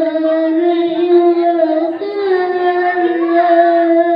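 Children singing, holding long drawn-out notes; the pitch steps up slightly about halfway through.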